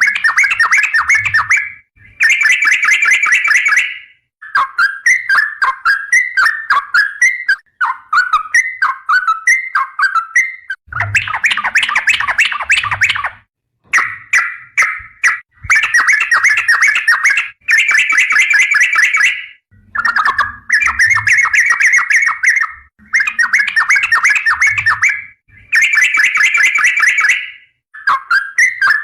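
Yellow-vented bulbul (trucukan) singing loudly in rapid, bubbling chattering phrases of about two seconds each, repeated after short pauses.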